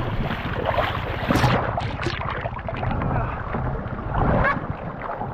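River water rushing and splashing, with wind buffeting the microphone and a steady low rumble underneath.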